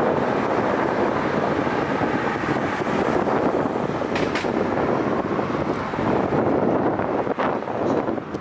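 Steady, loud rushing of wind and road noise on the microphone of a moving rider's camera. It starts abruptly just before this stretch and holds without a clear pitch or rhythm.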